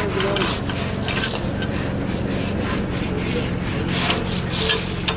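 Irregular scraping and rasping strokes as mud is scraped off a buried water main, over the steady low hum of an engine running.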